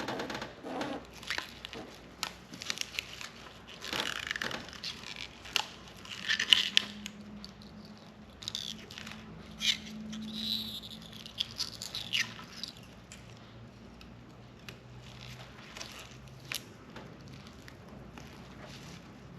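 Plastic masking and a rubbery Plasti Dip film being peeled and torn off car emblems: irregular crinkling, tearing and small clicks, busy for the first dozen seconds and sparser after.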